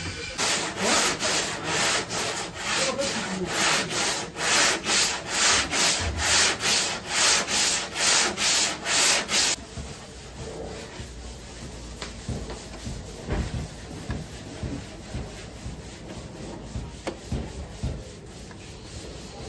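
Hand sanding or filing on car bodywork: rhythmic scraping strokes, about two a second, which stop about halfway through. After that come quieter workshop sounds with a few light knocks.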